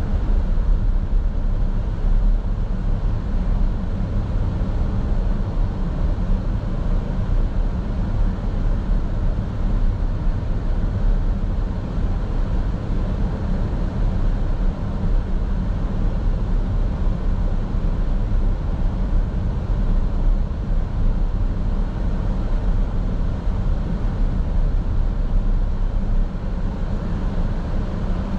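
Car driving at a steady pace, heard from inside the cabin: a continuous low rumble of road and engine noise.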